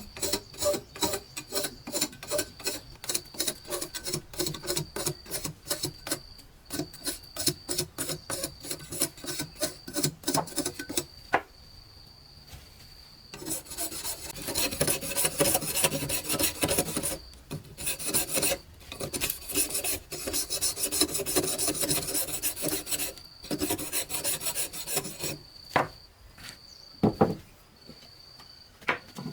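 Hand scraping with a blade or tool, rasping strokes about two or three a second, then a short pause and longer, faster runs of rasping before it thins to a few scattered strokes.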